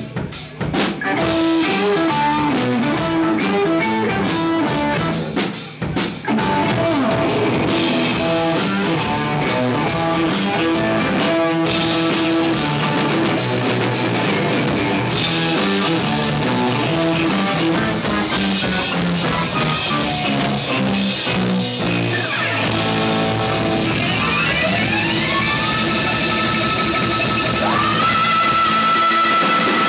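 Rock band playing: electric guitar over a drum kit with fast, steady drumming. Late on, a guitar line slides upward and settles into a held high note.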